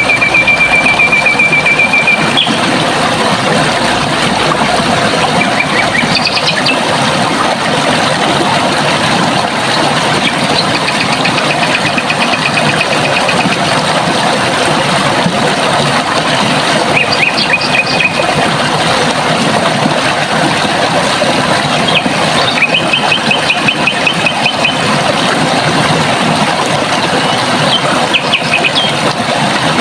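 Running water with a steady rush, and a bird giving rapid high trills every few seconds, the longest at the start and again past the middle.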